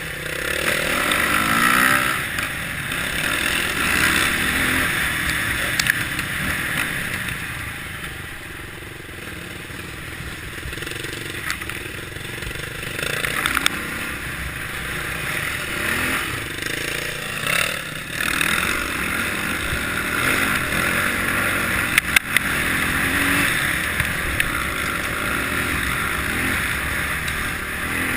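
Kawasaki KLX650R's single-cylinder four-stroke engine running while riding, the revs rising and falling, with a few sharp knocks late on.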